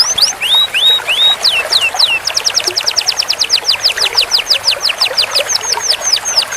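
Domestic canary singing: a few upward-sweeping whistled notes, then a long rapid roll of repeated notes at about ten a second, slowing near the end into drawn-out falling notes.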